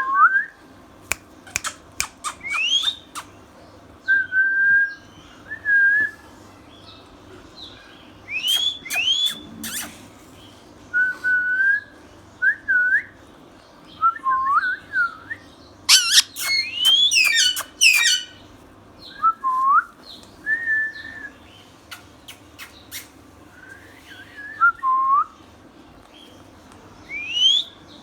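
Ringneck parrot whistling a run of short notes, many sweeping upward in pitch, broken by clusters of sharp, shrill clicking calls three times: a few seconds in, about halfway through, and again soon after.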